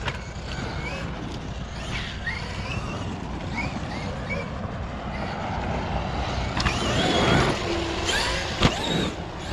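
Traxxas XRT RC truck's brushless electric motor whining up and down in short throttle bursts as the truck drives on dirt, over a steady low rumble. The whine climbs through a louder stretch late on, and there is a sharp knock near the end.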